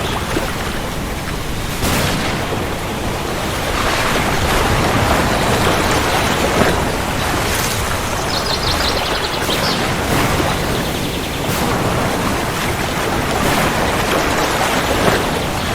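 Heavy rain falling steadily with thunder rumbling underneath, the rumble swelling and easing over several seconds.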